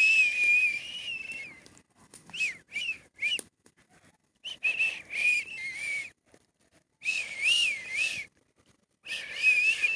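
High whistled notes that waver up and down in pitch, in about five phrases of half a second to two seconds with short pauses between.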